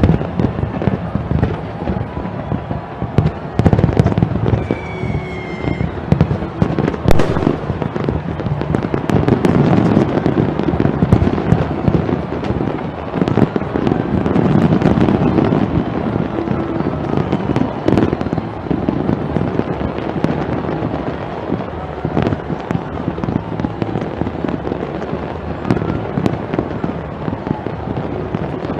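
Fireworks display: a dense, continuous series of bangs and crackling, with a short whistle about five seconds in.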